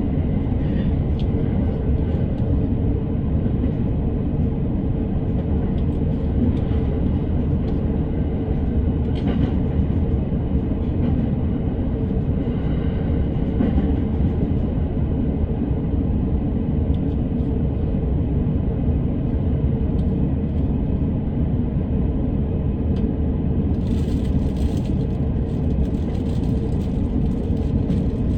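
Electric commuter train running at speed, heard from inside the car: a steady low rumble of wheels on rail with a faint motor hum, and a short hiss near the end.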